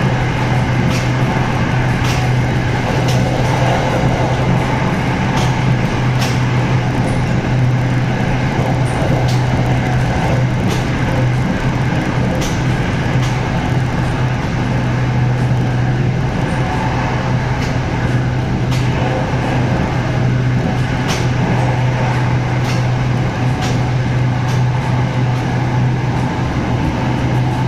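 SRT Red Line electric commuter train running, heard from inside the carriage: a steady low hum over a constant rushing noise, with occasional light clicks.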